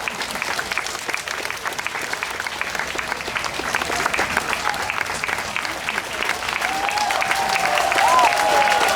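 Audience applauding after a wind band piece, a dense steady clapping. A long single high note sounds over the clapping near the end.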